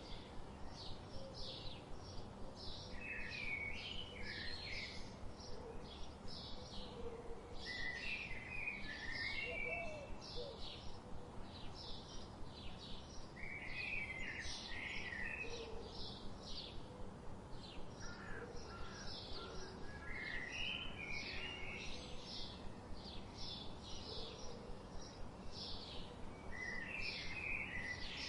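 Birds calling: a steady run of short high chirps, two or three a second, with a brief warbling song phrase breaking in every five or six seconds.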